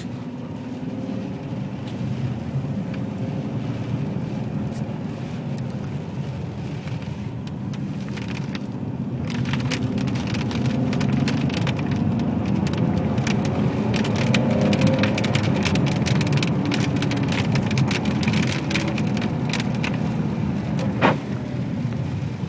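Ferrari 599 GTB Fiorano's Enzo-derived V12 engine running steadily, getting louder from about nine seconds in. Over it are tyres on a wet road, with dense spattering and crackling of water, and a single sharp click near the end.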